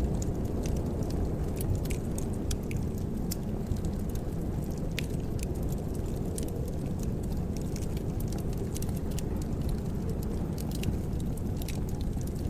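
Wood fire burning in a fireplace: a steady low roar of flames with frequent irregular crackles and pops.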